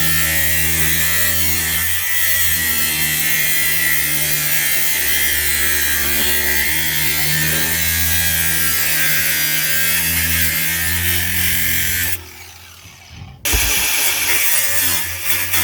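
Power tool working the steel exhaust pipe, running steadily under load, stopping for about a second near the end and starting again.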